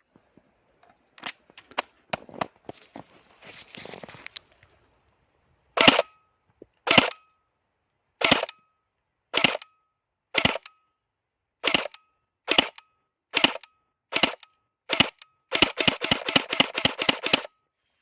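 EMG SGR-12 electric airsoft shotgun firing: after a few clicks and a rustle, ten single semi-auto shots about a second apart, each a short snap with a brief gearbox whine. Near the end comes a full-auto burst of about a dozen shots in two seconds.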